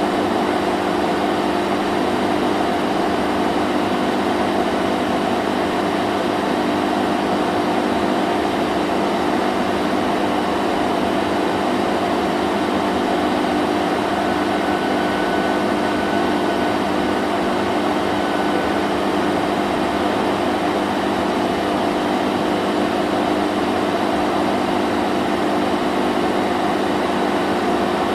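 Vacuum cleaner running steadily, a constant motor hum under a broad rushing hiss.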